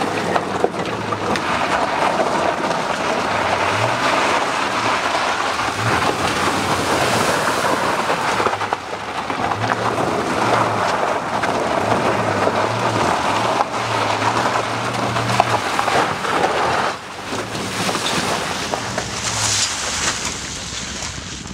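A pickup truck driving over rough ground, its running noise rumbling steadily, with background music carrying a low stepping bass line. The truck is loaded with two dirt bikes held down by ratchet straps.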